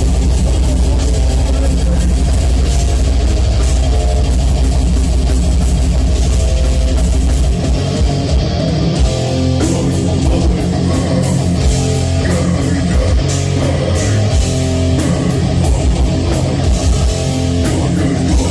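Live heavy metal band playing loud, with distorted electric guitars and a drum kit. A held, sustained low riff gives way about seven or eight seconds in to choppy, stop-start riffing.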